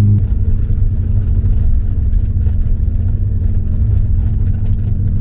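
Car engine with a low rumble. A steady engine drone breaks off right at the start, leaving an uneven low rumble with a faint steady tone above it.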